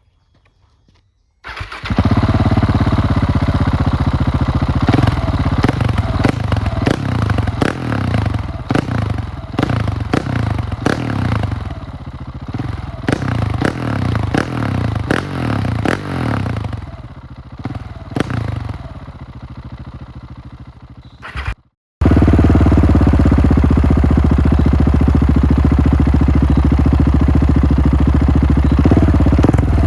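Husqvarna 701's single-cylinder engine starting about a second and a half in, then running unevenly, its level rising and falling with many sharp clicks and clatter. After a sudden cut about two-thirds of the way through, it runs steady and louder.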